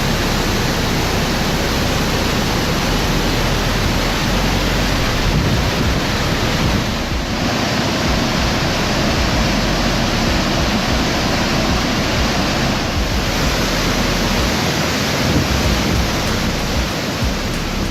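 Epupa Falls waterfalls: a steady, loud rush of falling water.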